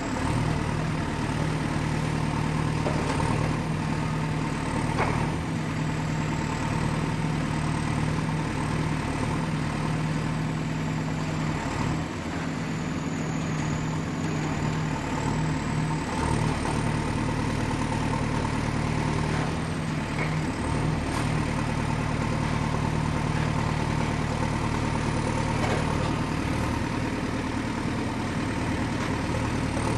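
Excavator engine running steadily with a strong low hum and a faint high whine that wavers slowly in pitch, with a few faint knocks.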